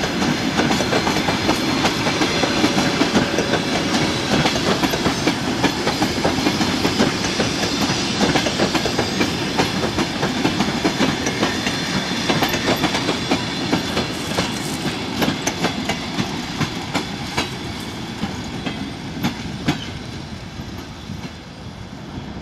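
Passenger coaches of a long train rolling past, their wheels clattering over the rails in a steady stream of clicks and knocks, fading over the last few seconds as the tail coach draws away.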